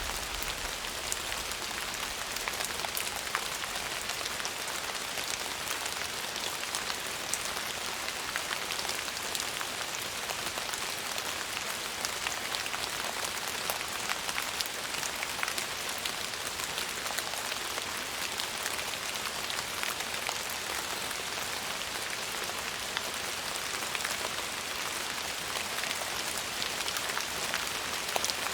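Steady rain falling, an even hiss of drops with many sharp individual drop ticks.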